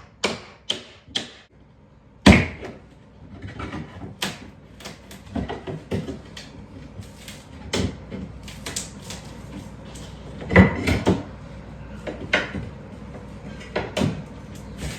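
Timber baseboard being pried off a wall with a cat's claw nail puller: a run of irregular sharp knocks and clicks of wood and metal, the loudest about two seconds in and again about ten and a half seconds in.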